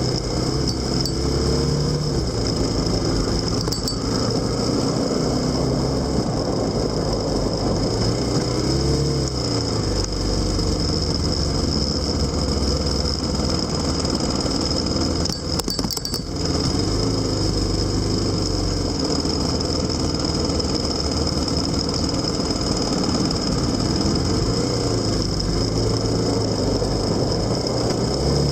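Motorcycle engine running on the move, its pitch rising and falling several times with the throttle, over a steady rushing noise. There is a brief dip about sixteen seconds in.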